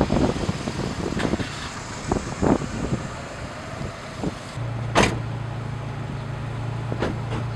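Car sounds: scattered knocks and clicks, then a steady low hum that starts a little past halfway, with one sharp click just after it begins.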